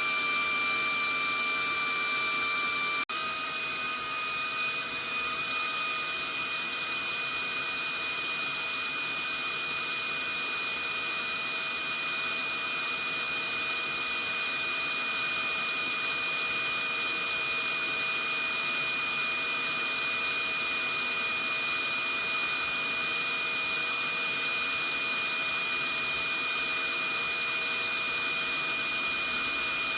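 Vacuum cleaner motor running steadily: a rushing hiss with a high, steady whine over it. About three seconds in the sound breaks for an instant and resumes slightly louder, its whine a little shifted in pitch.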